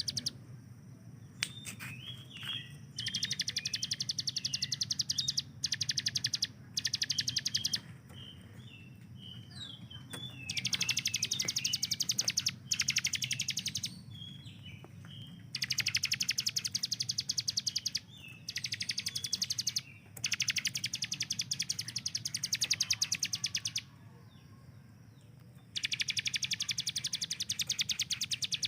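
A ciblek gunung, a prinia, singing in repeated bursts of very fast, high, rattling notes fired off like a machine gun, each burst lasting a couple of seconds, with short separate chirps in between. A steady low hum runs underneath.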